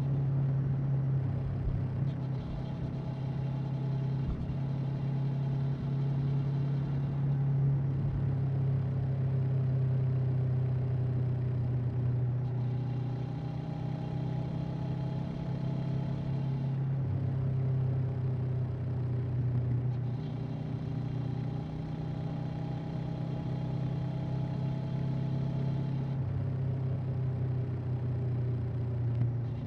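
Honda CB500X's parallel-twin engine and exhaust under way on the road, holding a steady note. The pitch steps up or down several times as the revs change.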